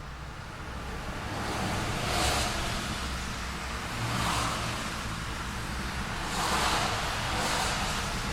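City street traffic: a steady low rumble with several cars passing one after another, each a swell of tyre and engine noise, about four in all.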